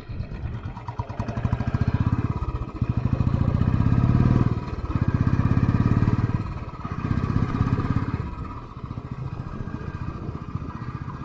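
Motorcycle engine running while ridden, the sound swelling as it pulls, with two short dips about halfway through, then easing off over the last few seconds.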